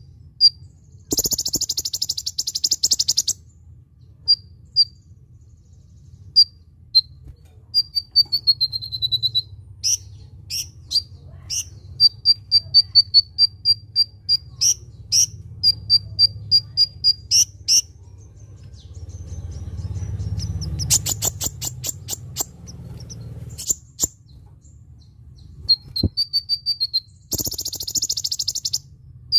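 Kolibri ninja sunbird singing: strings of short, high, sharp chirps, a quick falling run of notes, and two dense buzzy trills, near the start and near the end, over a steady low hum.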